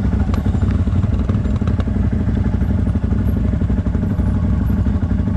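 CFMoto 1000 ATV's V-twin engine running at low, steady revs, with a couple of sharp knocks from the machine over rough ground in the first two seconds.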